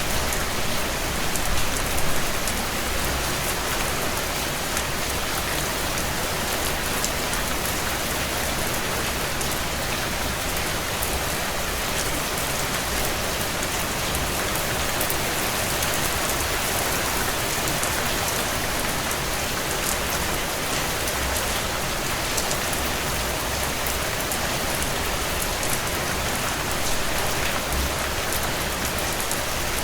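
Heavy rain drumming steadily on a tin roof: a dense, even hiss, with countless individual drops ticking on the metal.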